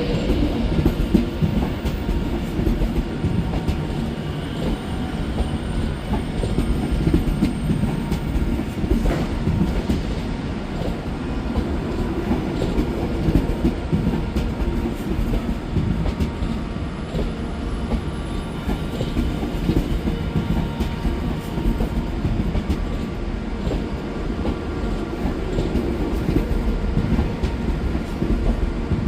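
Train running on the rails: a steady, loud low rumble with many quick wheel clicks.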